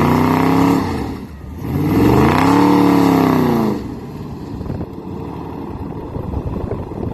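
2020 Dodge Charger Scat Pack's 6.4-litre HEMI V8 with a mid-muffler delete being revved: a rev falling away about a second in, a second rev rising and dropping back between about two and four seconds in, then the engine idling with a rough burble.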